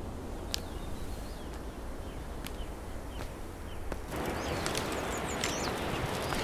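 Birds chirping in short gliding calls over a steady background hiss, with a few sharp clicks. About four seconds in, the hiss gets louder and the chirping busier.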